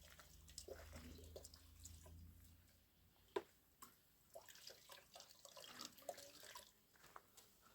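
Near silence with faint scattered small clicks and taps, and one sharper click a little over three seconds in.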